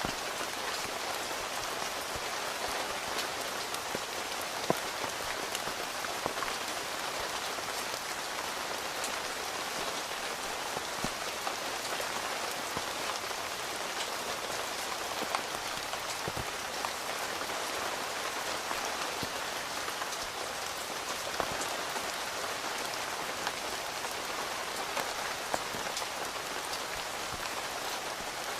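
Steady rain heard from inside a tent, a continuous patter with now and then a single louder drop striking close by.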